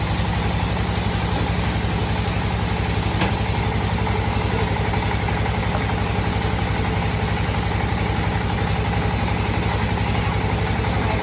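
Sawmill bandsaw machine running steadily, with a low, even engine-like hum and a fast, regular pulse.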